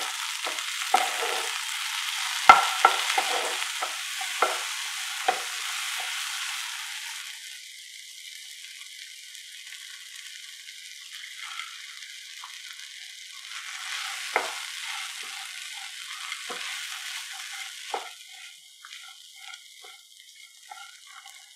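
Chopped onions, tomatoes, dry red chillies and garlic sizzling in oil in a nonstick pan on low flame, with a spatula stirring and scraping and clicking against the pan. About seven seconds in the sizzle turns quieter, with only occasional spatula taps after that.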